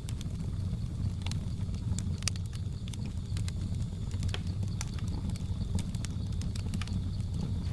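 Wood fire burning with a steady low rumble and irregular sharp crackles and pops, under a faint steady high-pitched drone.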